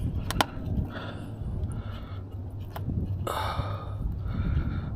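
A man breathing hard, with two or three loud breathy exhales in the second half, over a steady low hum. A couple of sharp clicks come near the start and one near the middle.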